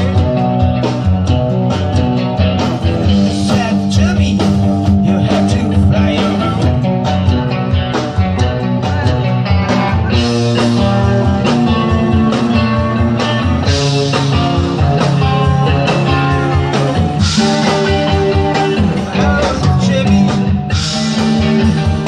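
Rock band playing live, with guitar, bass and drums.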